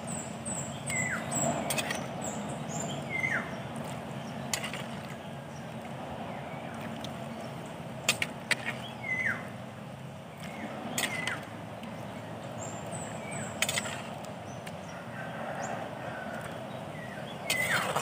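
Birds chirping: quick high chirps and short downward-gliding whistles come every couple of seconds over a low steady hum. A sharp click or knock sounds now and then.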